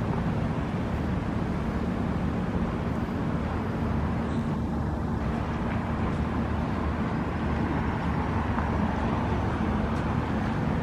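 Steady low rumble of urban engine and traffic noise, with a constant low drone underneath.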